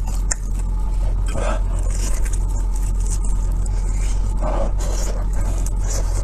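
Chewing and mouth sounds of someone eating, coming every few seconds over a steady low hum.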